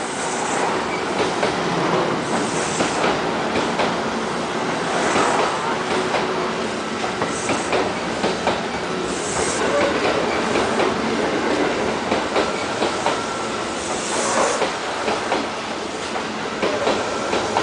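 Train running past, its wheels clattering steadily over rail joints with repeated sharp clicks, and several brief high squeals from the wheels.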